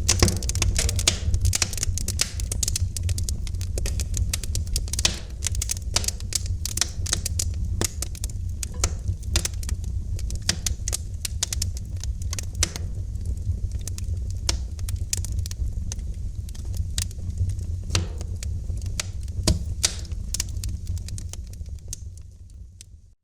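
Wood fire in a fireplace crackling, with dense, irregular snaps and pops over a steady low rumble of the flames. The sound fades out near the end.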